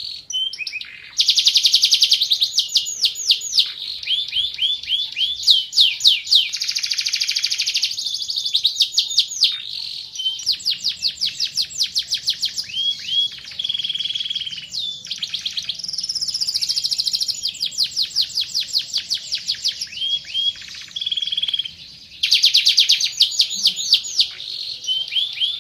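Domestic canary singing: fast trills of rapidly repeated high chirps, changing from one trill to the next every second or two, with short breaks about a second in and near the end.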